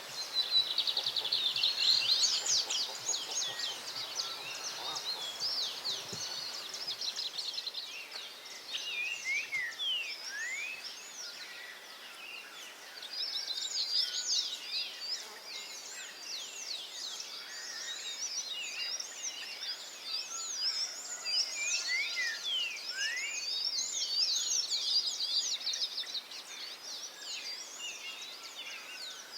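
Several wild birds singing and calling at once: a dense chorus of rapid chirps, trills and short gliding whistles, thinning out for a few seconds in the middle and building again.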